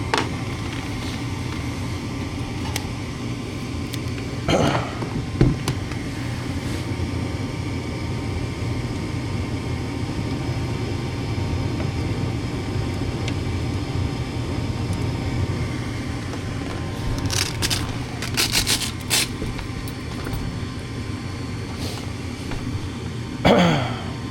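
Gas furnace's draft inducer motor running with a steady hum during a heating call, while the burners stay unlit because the gas valve is not opening. A few knocks and clicks come over it, a cluster of them about three quarters of the way through.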